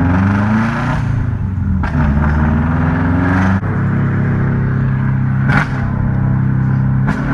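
Subaru WRX's turbocharged flat-four revved twice, the pitch climbing each time, then settling to a steady lower running note. Sharp exhaust pops crack out about four times: backfire.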